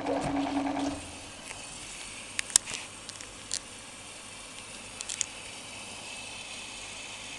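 Washing machine: a rhythmic mechanical whirr with a short hum stops about a second in, leaving a steady faint hiss broken by a few sharp clicks.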